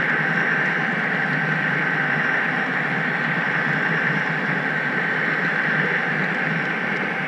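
HO-scale model train rolling steadily along the track: a continuous hiss with a thin steady whine.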